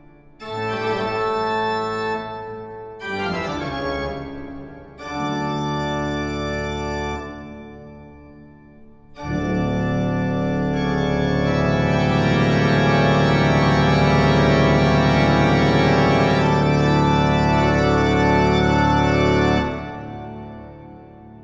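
Organ music laid over the clip: a few short chordal phrases, then a long, loud held chord from about nine seconds in that fades away near the end.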